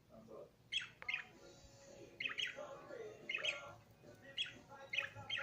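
Small birds chirping in short, sharp calls, repeated roughly once or twice a second.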